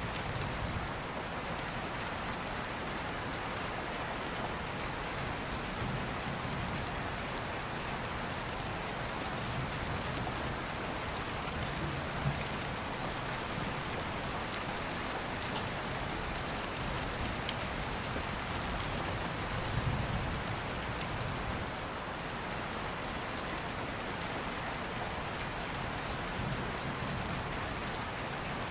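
Steady rain falling, with low rumbles of distant thunder swelling now and then, and a few faint sharp crackles from an open fire.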